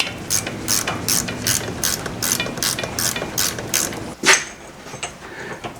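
Ratchet clicking in an even series, close to three clicks a second for about four seconds, then one louder single click.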